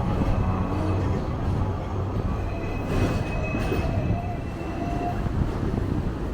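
Train running: a steady low rumble, with a thin high squeal from the wheels for a couple of seconds in the middle.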